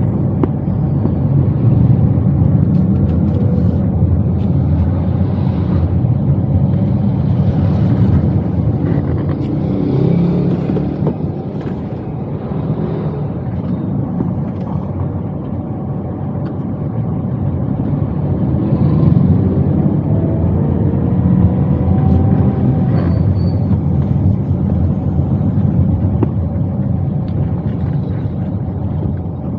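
Toyota Wigo engine and road rumble heard from inside the cabin while driving, a steady low drone. The engine pitch rises a few times as the car picks up speed, with a quieter stretch in the middle.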